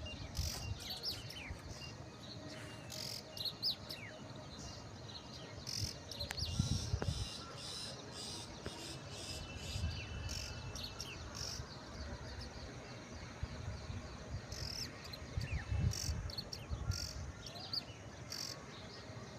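Birds chirping and calling with insects trilling, the chirps short and scattered throughout. Low rumbles come and go, around 7 and 16 seconds in.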